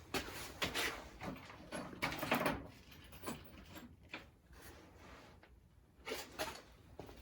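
Tools and metal parts being handled on a workbench: scattered clicks, knocks and short scrapes.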